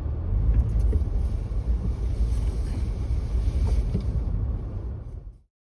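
Toyota Tacoma driving in four-wheel-drive low, a steady low rumble of engine and road, fading out about five seconds in.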